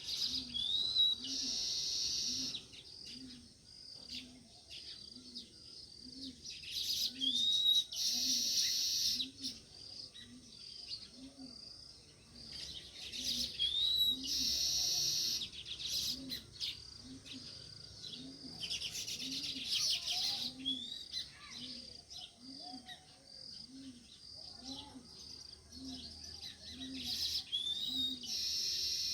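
House sparrows chirping, with a phrase that recurs every few seconds: a short rising whistle followed by a dense, harsh chatter lasting about a second. A faint low note is repeated about once a second underneath.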